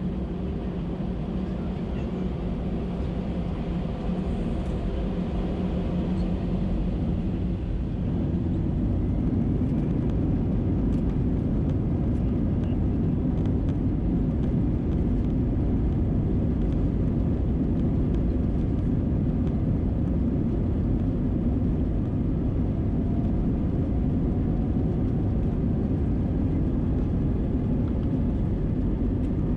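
Airbus A319's CFM56 jet engines heard from inside the cabin, a steady low rumble that grows louder about eight seconds in and then holds.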